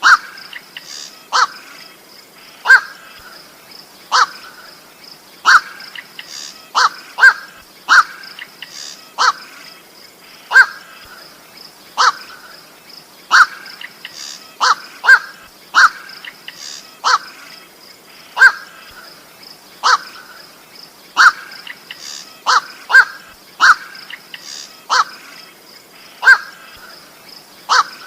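Night heron (burung koak) calling repeatedly: short 'koak' calls about once a second, some in quick pairs, over a steady high-pitched tone. This is a lure recording used to attract the birds.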